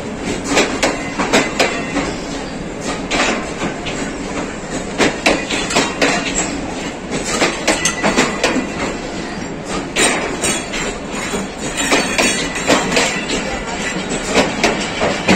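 Passenger train coaches rolling past along a station platform, their wheels clattering over the rail joints in a steady rumble crowded with irregular sharp clicks and knocks.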